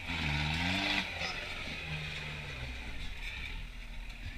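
Kubota turbo diesel engine of a Suzuki Samurai rock crawler revving up and down under throttle while the truck crawls over rocks. It holds a steady note for a moment about two seconds in, then drops back and runs quieter.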